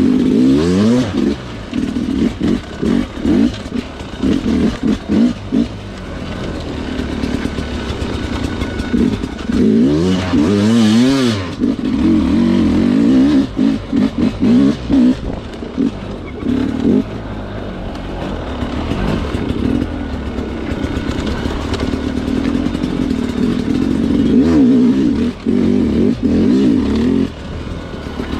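Sherco two-stroke dirt bike engine being ridden, revving up and down in repeated throttle bursts, with a hard rising rev about ten seconds in.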